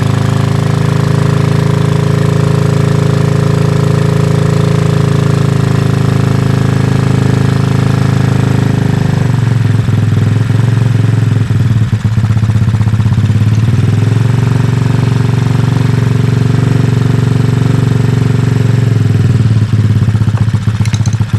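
Kayo pit bike's small single-cylinder four-stroke engine running on its freshly overhauled and adjusted carburetor. It holds a steady note at first, then about halfway through the pitch drops and runs unevenly for a few seconds before settling into a steady idle again, with another small shift near the end.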